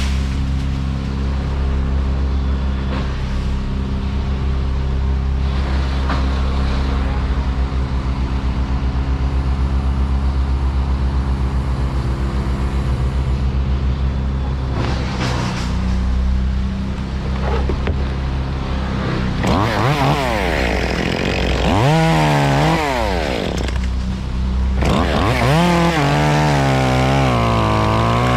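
An engine drones steadily at a low, even speed. About two-thirds of the way in, a chainsaw is revved up and down repeatedly in short bursts, as in cutting.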